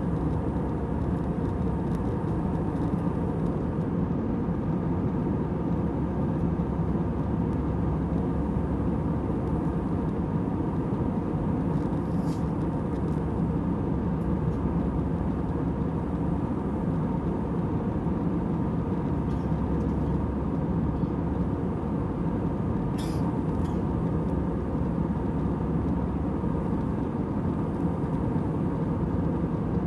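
Airliner cabin noise heard from a passenger seat: the steady hum and rush of the jet engines and airflow, a deep even drone with a faint tone in it. Two faint brief ticks sound about a third and three quarters of the way through.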